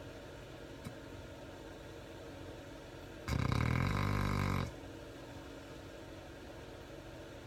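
Labrador retriever snoring in her sleep: one loud snore about three seconds in, lasting over a second, over a low steady hum.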